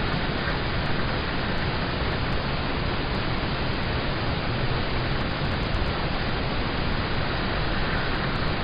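Steady rain falling on a car, heard from inside the cabin: an even, unbroken wash of noise with no single drops or gusts standing out.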